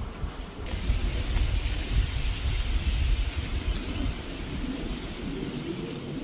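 Wind gusting against the microphone with a low rumble, joined about a second in by a steady rushing hiss of wind.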